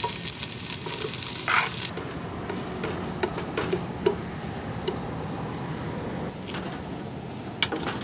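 Onions and garlic sizzling in a hot pot, with a few light knocks of a utensil stirring; the sizzle drops away abruptly about two seconds in, leaving a low steady background.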